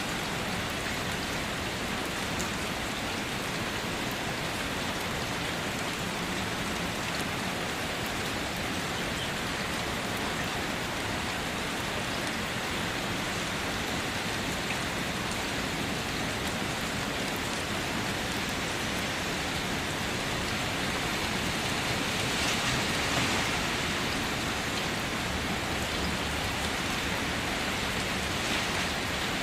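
Steady rain falling, an even hiss that swells slightly about two thirds of the way through.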